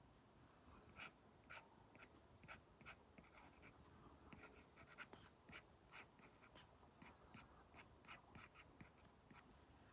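Faint Apple Pencil Pro tip tapping and stroking on an iPad screen fitted with a paper-like matte film: a run of irregular light ticks and short scratches, a few a second.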